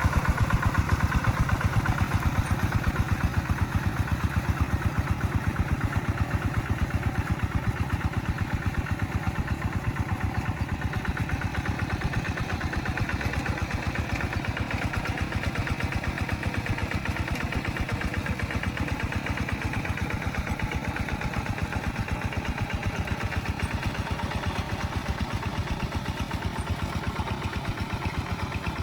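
Rice-field tractor engine running steadily with a rapid, even firing beat, a little louder in the first few seconds.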